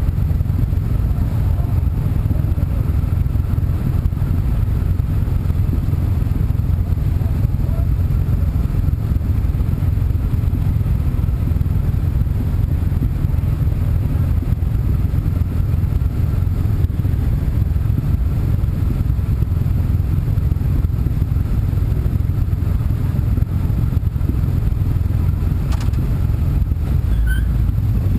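A moving car's engine and road noise: a steady low rumble that never lets up, with a single short click near the end.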